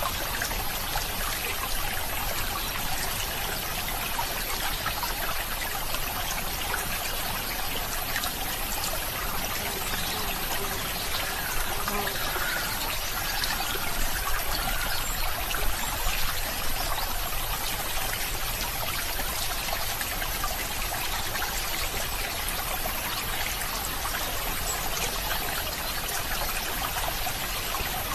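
Running water trickling steadily, an even rush with a few slightly louder splashes a little before the middle.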